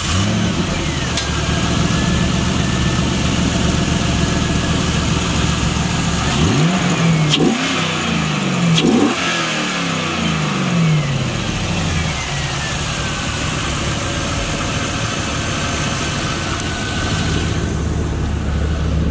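A 2002 Camaro Z28's 5.7-litre LS1 V8 idling steadily. About a third of the way in it is revved twice, the pitch climbing and falling back each time, before it settles back to idle.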